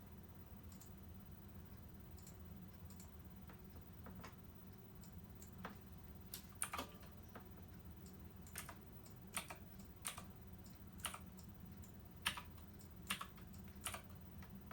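Irregular clicks of keys or buttons being pressed, a few faint ones at first and more and louder ones in the second half, over a faint steady low hum.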